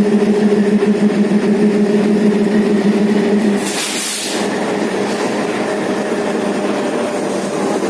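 Diesel locomotive running with a steady drone that drops away about three and a half seconds in, followed by a short loud hiss of air and a fainter hiss a second later.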